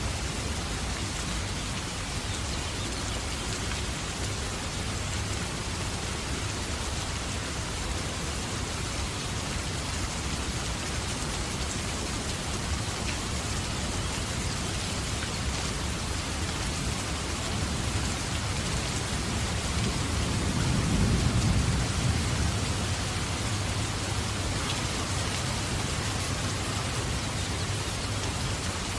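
Steady rain falling on a surface, an even hiss throughout. A low rumble swells and fades about twenty seconds in.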